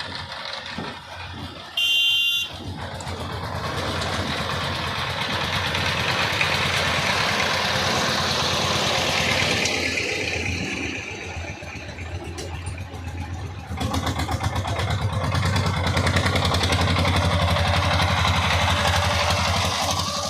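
A vehicle engine running steadily with a low pulsing throb, louder in the last third. A brief, loud, high-pitched tone sounds about two seconds in.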